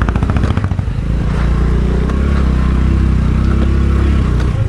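Honda Dio scooter engine running as the scooter is ridden. It pulses unevenly at first, then settles into a steady hum from about a second in and eases off near the end.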